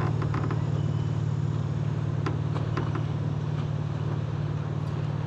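Boat motor running steadily, a low pulsing hum, with a few faint clicks over it.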